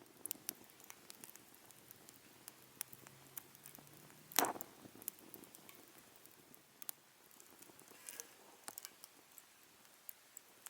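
Wood fire crackling in a homemade fire pit: scattered small pops and ticks, with one louder crack about four seconds in.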